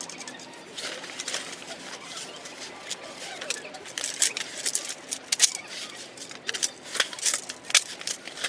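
Camping hanger stand being assembled by hand: irregular sharp clicks and light clattering as its parts are fitted together, thickest in the second half.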